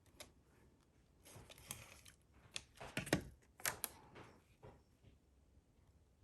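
Faint handling of paper and cardstock: scattered light taps, clicks and brief rustles as a die-cut paper piece is positioned and pressed onto a card, busiest in the middle stretch.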